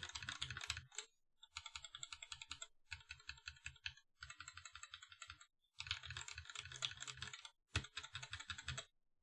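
Typing on a mechanical keyboard fitted with JWK recolor linear switches, Alpaca-type: fast runs of keystrokes in about six bursts separated by short pauses.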